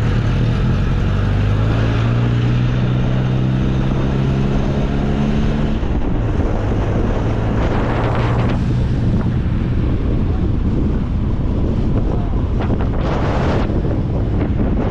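Small open-top MG Midget sports car driving, its engine running and rising a little in pitch as it accelerates, with heavy wind buffeting the microphone in the open cockpit; two louder rushes of noise about eight and thirteen seconds in.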